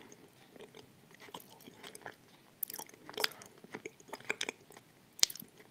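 Close-miked chewing of a pressed 'Turkestan' bar with the mouth closed: small wet clicks and crackles throughout, with one sharper click near the end.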